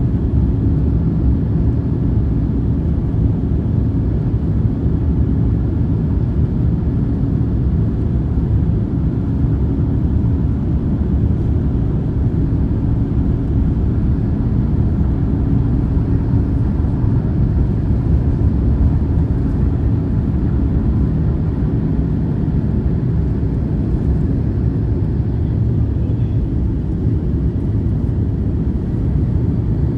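Steady low roar inside the cabin of an Airbus A350-1000 climbing after takeoff: noise from its Rolls-Royce Trent XWB engines and the rushing air, with a constant hum running underneath.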